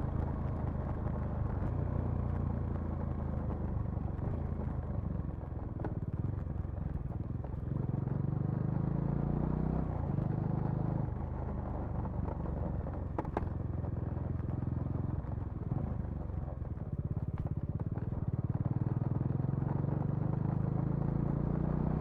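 Bajaj Dominar 400's single-cylinder engine and exhaust running while riding, the engine note rising and falling with throttle and gear changes. A brief sharp click about 13 seconds in.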